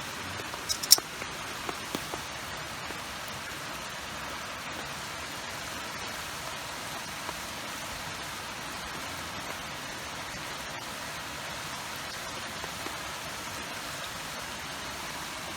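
Steady hiss of rain falling. A few sharp clicks come in the first second, the loudest about a second in.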